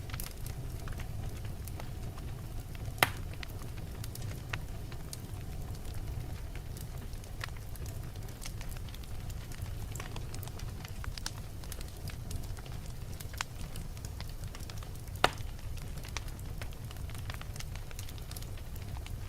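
Wood fire burning in a fireplace: a steady low rumble of flame with scattered crackles and pops, two of them sharper and louder, about 3 and 15 seconds in.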